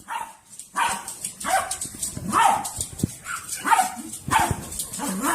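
A dog barking repeatedly, a string of short barks a little faster than one a second.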